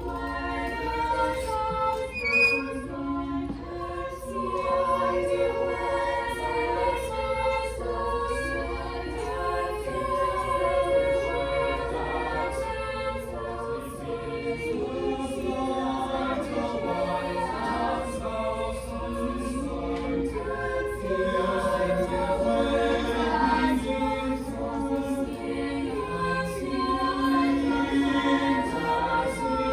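Choir singing in several voice parts, phrases moving continuously.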